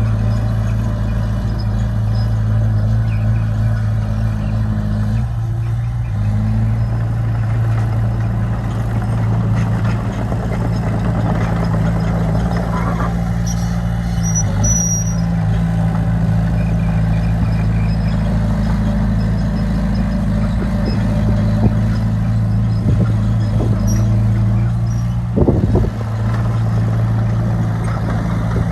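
Heavy diesel engine of earthmoving equipment running steadily under changing load, its pitch shifting a few times. There is a brief high squeal near the middle and a short clank near the end.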